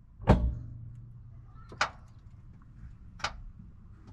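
A sharp knock, followed briefly by a faint low hum, then two single sharp clicks about a second and a half apart.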